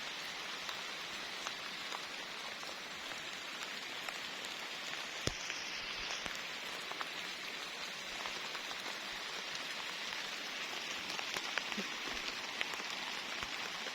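Steady rain falling, an even hiss with scattered drip ticks and one sharper click about five seconds in.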